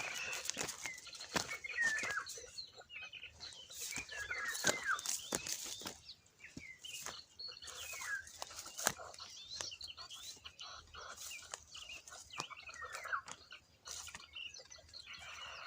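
Small birds chirping in many short, quick calls, with fluttering wing beats and sharp rustling clicks mixed in.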